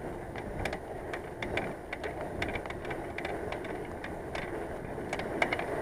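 Irregular sharp clicking from a bicycle's rear hub while riding, about one to two clicks a second, over steady tyre and wind noise. The hub was acting up on this ride, its grease found afterwards gone to black sludge.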